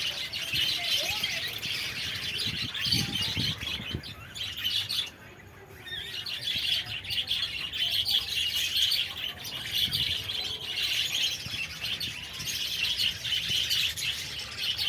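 A flock of budgerigars chattering and chirping continuously, with a brief lull about five seconds in.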